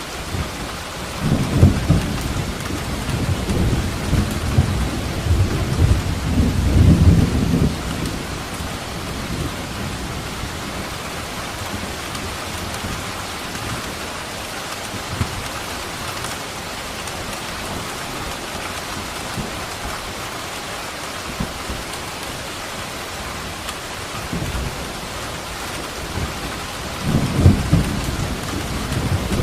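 Steady rain with rolling thunder. A long rumble builds about a second in and dies away after about seven seconds, and another begins near the end.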